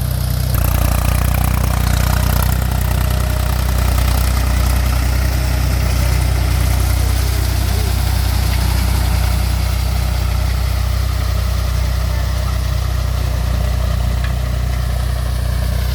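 Mahindra 275 TU tractor's three-cylinder diesel engine running steadily, its low engine note getting slightly heavier about half a second in and then holding.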